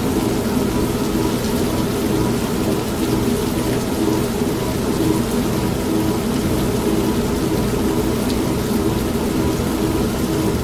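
An old washing machine runs with a steady low hum, mixed with steady rain.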